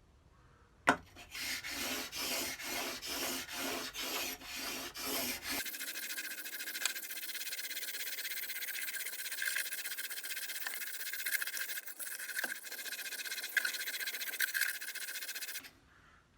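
A Record No. 5 plane blade in a honing guide rubbed back and forth on dry 400 grit sandpaper, grinding the bevel. It starts with a sharp knock, then even strokes about two a second, then runs into a steady continuous scraping that stops suddenly near the end.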